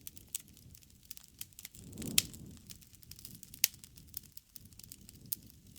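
Wood fire crackling: scattered sharp snaps and pops over a low rumble of burning, with two louder pops about two and three and a half seconds in.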